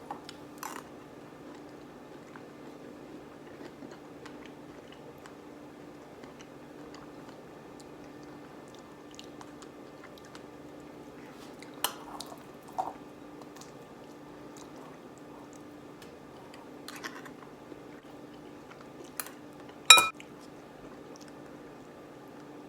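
A spoon clinking now and then against a bowl of oatmeal during eating, a few separate clicks, the loudest a ringing clink near the end. A steady low hum runs underneath.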